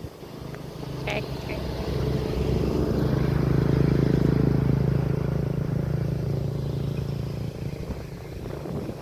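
A motor vehicle engine running at a steady pitch, passing by: it grows louder, is loudest about four seconds in, then fades away, over wind noise.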